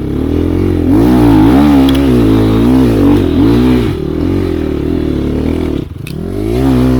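Enduro motorcycle engine pulling under load in a low gear, its revs rising and falling repeatedly as the throttle is worked. The engine note drops briefly about six seconds in, a shift up to second gear, then climbs again.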